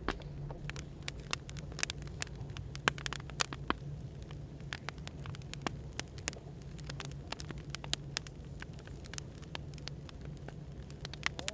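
Firewood burning with irregular sharp crackles and pops over a steady low hum of café background noise.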